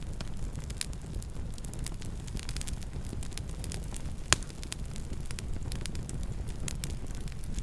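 Campfire burning: a steady low rumble of the flames with scattered crackles and pops, one sharper pop about four seconds in.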